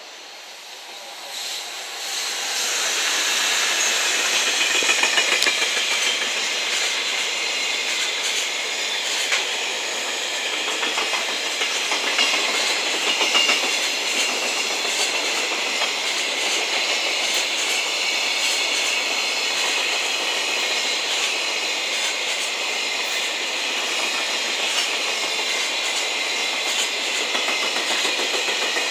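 Container freight train hauled by a JR Freight EF210 electric locomotive passing slowly close by. The noise swells over the first few seconds as the locomotive draws level, then holds as a steady rolling rush of wagon wheels on the rails, with scattered clicks as the wheels cross the rail joints.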